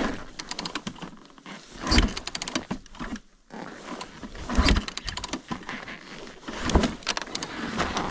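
Three kick-start strokes on a Yamaha YZ450's single-cylinder four-stroke engine, each a heavy thump a couple of seconds apart, with clicks and rattles between them; the engine does not catch. It is hard to kick over with its freshly rebuilt motor.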